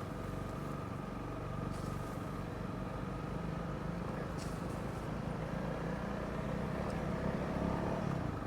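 Honda CRF300 Rally motorcycle's single-cylinder engine running steadily under way, with a low, even engine note and road noise.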